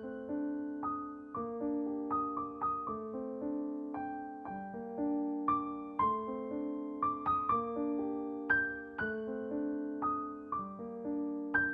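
Background music: a slow piano melody of separate held notes, about one or two a second.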